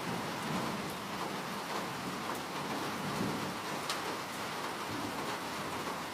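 Steady rain falling, an even hiss with scattered individual drops ticking, one sharper drop about four seconds in.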